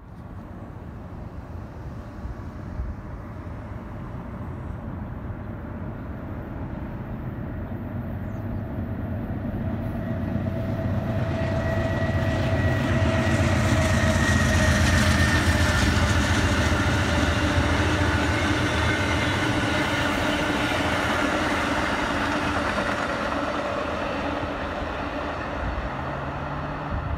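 A train approaching and passing close by: a steady rumble that grows louder over the first half, is loudest around the middle, then slowly fades.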